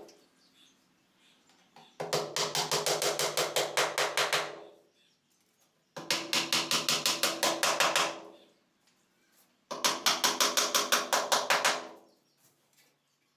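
Three quick runs of rapid hammer strikes on wood, about six blows a second, each run lasting a couple of seconds with short pauses between.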